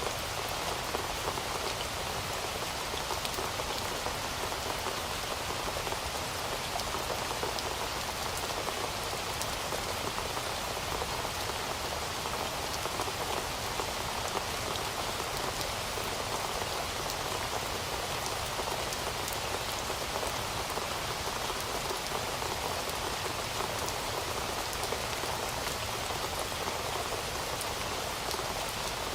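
Heavy rain falling steadily, an even hiss of many drops with fine ticks of individual drops throughout.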